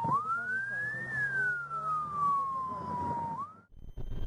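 Police siren wailing: one clear tone climbs quickly, then falls slowly over about two seconds, starts to climb again, and cuts off abruptly near the end.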